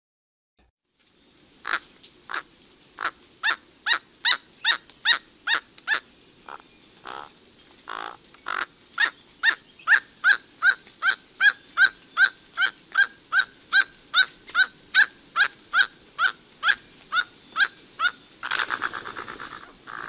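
A cloud forest bird calling a long series of short, evenly spaced notes, about two or three a second, followed near the end by a longer rasping call.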